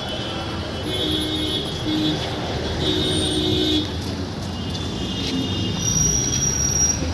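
Road traffic: a steady vehicle rumble with a few short horn toots, about one, two and three seconds in.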